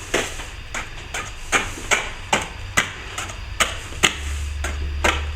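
Hand scraper chipping loose, damp-blown plaster off a brick wall in sharp strokes, about two to three a second. The plaster has come away from rising damp coming back up through the bricks.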